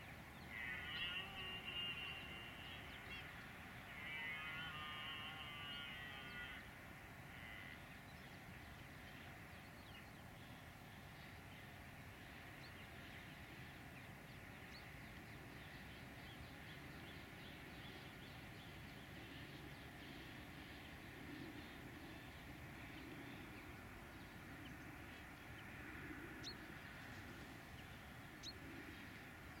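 Faint open-air ambience with birds calling: two runs of rapid repeated calls in the first seven seconds, and a few short calls near the end.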